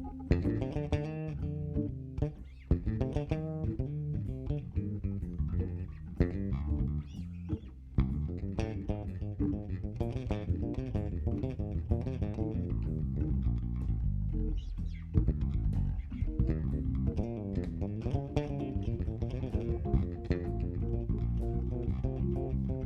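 Instrumental jazz-blues jam with an electric bass guitar to the fore, along with guitar, in a busy run of plucked notes.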